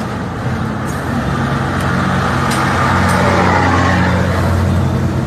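Truck engine running steadily with road noise while driving, growing a little louder after about a second.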